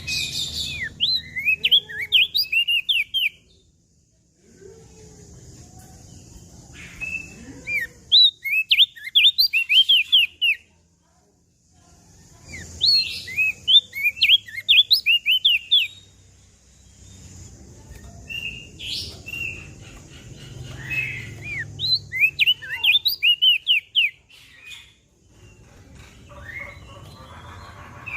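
Crested white-eye (opior jambul) singing: bursts of quick, sharp down-slurred notes, each burst two to three seconds long, repeated about six times with short pauses between, over a faint low rumble.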